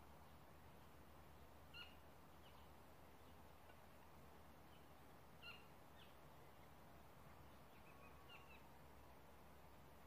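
A small bird chirping faintly three times, short high chirps a few seconds apart, over near-silent outdoor background.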